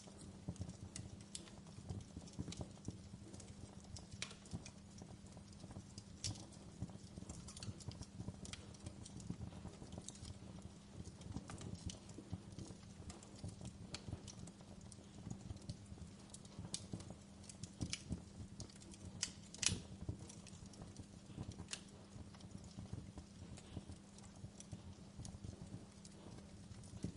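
Fireplace crackling: irregular sharp pops and snaps over a low steady rumble, with one louder snap near the end.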